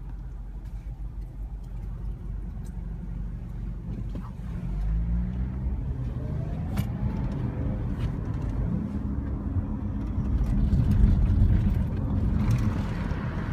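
Long Island Rail Road M7 electric train running, with a whine that rises in pitch and a rumble that grows louder, peaking about eleven seconds in.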